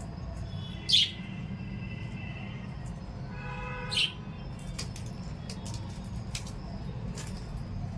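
Small pet parrots giving two sharp calls, about a second in and about four seconds in, with a few faint clicks between them, over a steady low hum.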